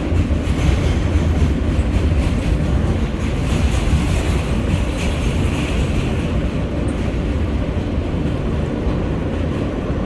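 R143 subway train running between stations, heard from inside the car: a steady, loud rumble of wheels on the rails and the car in motion.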